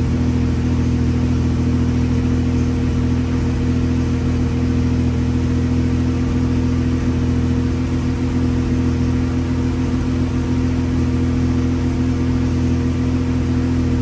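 1965 Austin-Healey 3000 Mk III's straight-six engine idling steadily through its exhaust, with no revving.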